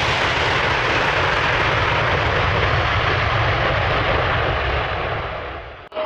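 Aircraft engines running with a steady, loud rushing roar that fades away near the end.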